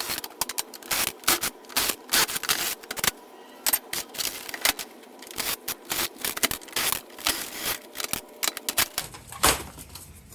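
Irregular sharp clicks and light metal clatter of tools and parts as an aluminum-cased electronics unit is taken apart by hand.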